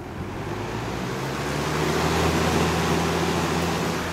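Air King 20-inch box fan (model 9733) running on high. The rush of moving air grows louder over the first two seconds as the blades come up to speed, then holds steady over a low motor hum.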